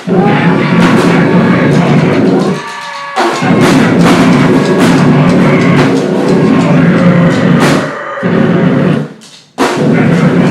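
Live noise-grind: loud drum-kit pounding under a dense wall of distorted noise, breaking off abruptly twice for a moment and crashing back in.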